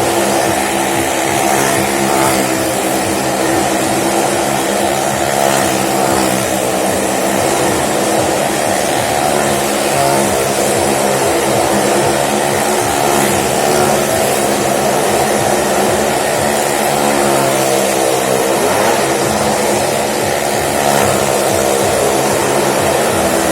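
Motorcycle and car engines running without a break as they circle the wall of a well-of-death drum. The engine drone wavers slightly in pitch.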